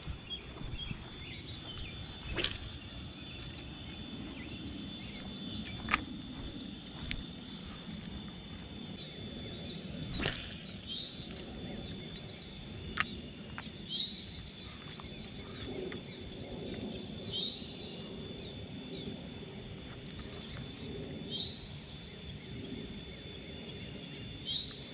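Outdoor background noise. A bird repeats a short rising call every three to four seconds over a steady high thin whine, and a few sharp clicks come in the first half.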